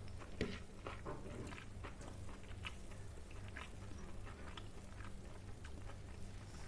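Close-up eating sounds: wet chewing and lip smacks in a quick, irregular run of short clicks as rice and spicy fish curry are eaten by hand. A steady low hum sits underneath.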